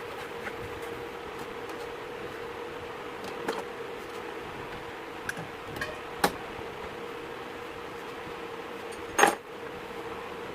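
A few light clicks and knocks, like tools or small metal parts being handled and set down, with the loudest, a short clack, about nine seconds in, over a steady low hum.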